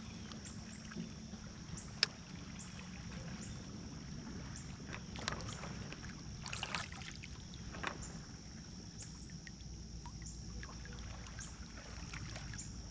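Fishing kayak sitting on the water: light knocks and clicks of gear against the hull, one sharp click about two seconds in, over a low steady rumble. A steady high-pitched drone with a short chirp repeating about once a second runs underneath.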